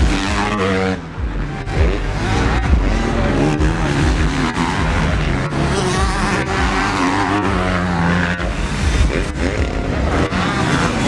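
Several racing motorcycle engines revving at once, overlapping, their pitch rising and falling as they pass.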